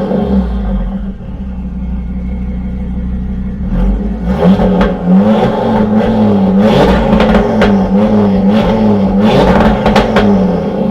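Audi TT RS 2.5-litre turbocharged five-cylinder running through a decat Milltek Sport exhaust: loud under throttle with sharp cracks, easing to a low drone about a second in, then loud again from about four seconds in, its pitch wavering, with more cracks, before dropping back near the end.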